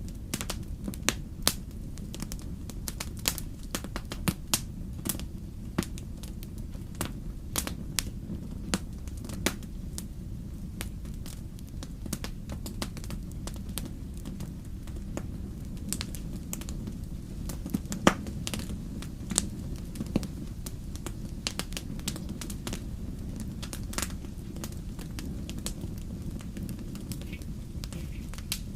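Wood fire crackling: irregular sharp pops and snaps, one louder crack about two-thirds of the way through, over a steady low rumble.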